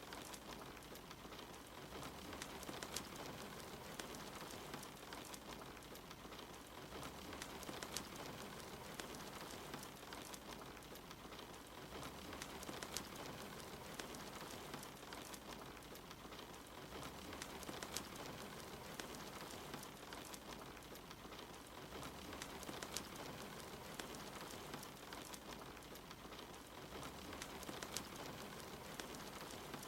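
Steady rain hiss mixed with a wood fire crackling in a fireplace, with scattered sharp pops.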